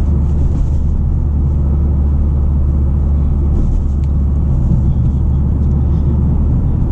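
Steady low drone of a 2023 Toyota GR Corolla's 1.6-litre turbocharged three-cylinder engine and FI Exhaust valved catback, valves closed, heard inside the cabin with the windows up while driving at an even pace.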